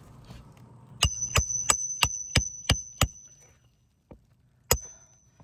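Hammer blows on metal, each with a high ringing note: seven quick strikes at about three a second, then one more after a short pause.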